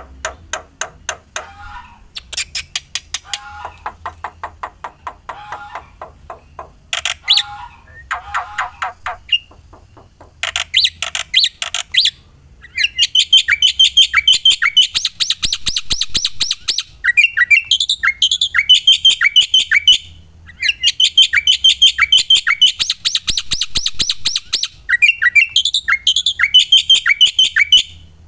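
Black-winged myna (jalak putih) calling in rapid strings of sharp, repeated chattering notes. The first half is softer, with short phrases and gaps; from about twelve seconds in the chatter turns loud, fast and high, with brief pauses twice.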